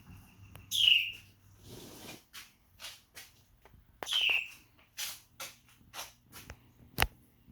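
A bird calling: two loud chirps that fall in pitch, about three seconds apart, with short scratchy sounds between them and a sharp click near the end.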